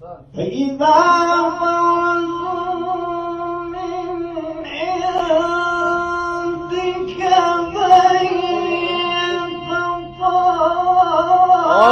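A single voice reciting the Quran in melodic tajweed style in maqam Sikah, holding long ornamented notes with a short breath break near the end.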